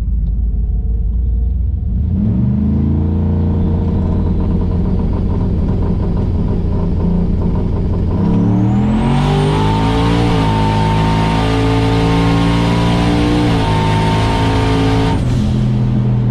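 Drag-racing pickup truck engine pulling hard down the strip. The engine pitch climbs and drops back at each of two gear changes, with a high whine rising partway through, then settles to a low rumble as the throttle comes off near the end.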